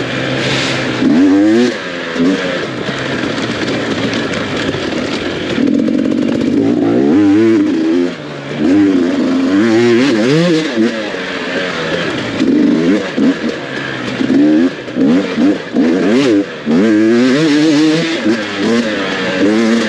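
Off-road dirt bike engine revving up and down again and again as it is ridden hard on a race trail, with the pitch climbing and falling every second or so and a few brief drops in loudness as the throttle is chopped.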